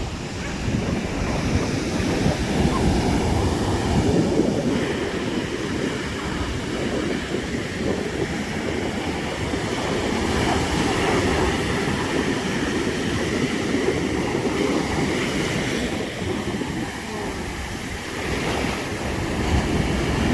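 Ocean surf washing on the shore, with wind buffeting the microphone in a continuous low rumble.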